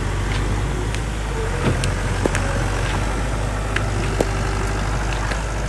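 Bulldozer's diesel engine running steadily under load, with sharp metallic clanks about once a second.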